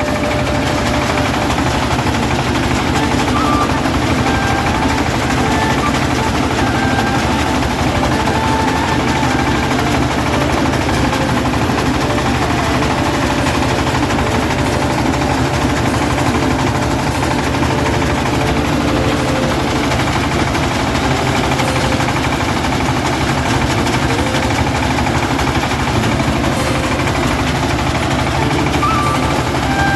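Diesel engine of a rice combine harvester running steadily under load, with the rapid, even drone of a working machine throughout.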